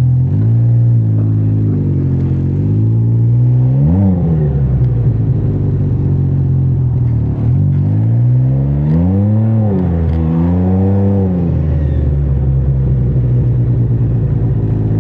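Can-Am Ryker three-wheeler's engine running on the road, its pitch rising and falling with the throttle: a quick rev up and back about four seconds in, then two longer swells between about eight and eleven seconds.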